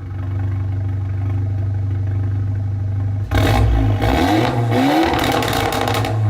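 Straight-piped Volkswagen Golf GTI Mk7's turbocharged 2.0-litre four-cylinder, with no muffler or resonator, idling steadily. About three seconds in it is revved, getting louder with its pitch rising and falling several times, then drops back toward idle near the end.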